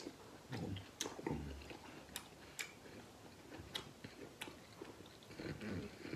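A man chewing a mouthful of lamb and noodles, with scattered sharp smacks and clicks, about five standing out over the few seconds.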